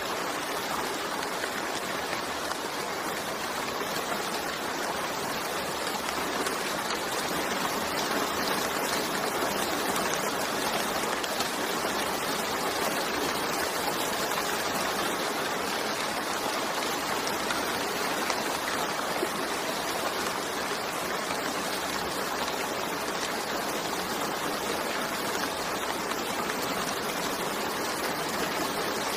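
Steady rain falling, an even, unbroken wash of noise from countless drops.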